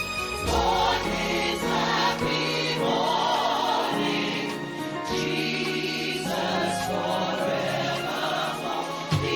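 Choir singing worship music with instrumental accompaniment, holding long notes.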